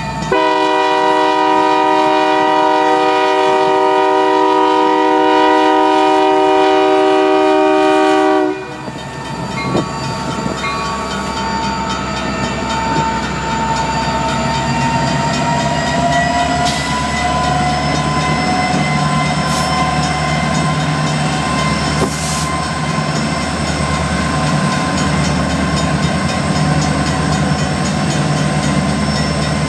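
Union Pacific diesel locomotive's air horn blowing one long chord at close range, cutting off after about eight seconds. Then the locomotives run past the crossing, with a steady diesel engine rumble and wheels clacking on the rails.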